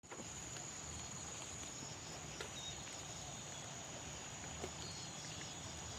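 Insects droning steadily in one constant high-pitched note over a faint hiss, with a few light clicks.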